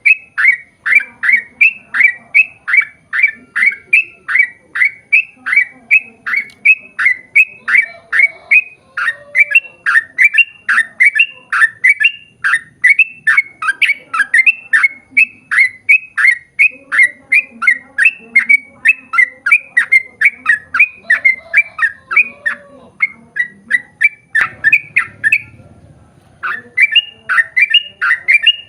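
Yellow-vented bulbul (trucukan) calling in a long, fast run of repeated chirps, about two to three notes a second, each note dropping in pitch. The run breaks off for about two seconds near the end, then starts again.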